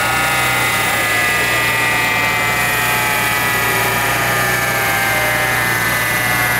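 Lexus SC300's stroked, turbocharged 2JZ-GTE straight-six running on a chassis dyno: a steady low hum under a whine that falls slowly in pitch.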